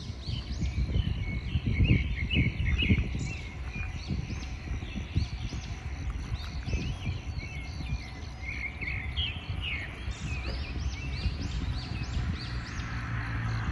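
Several birds chirping and calling in short repeated phrases over outdoor ambience, with an uneven low rumble underneath.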